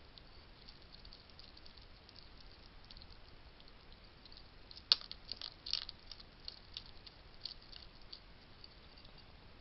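Wild hedgehogs feeding: small scattered crunching and clicking of food being chewed and bumped at a feeding station, with one sharp knock about five seconds in followed by a quick cluster of clicks.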